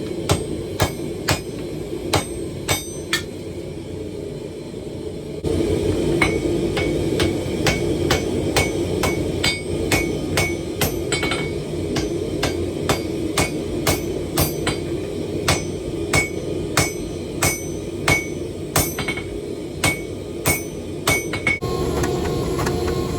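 Hand hammer striking hot steel on an anvil in a steady rhythm of about one and a half blows a second, each blow ringing briefly, over a steady low roar.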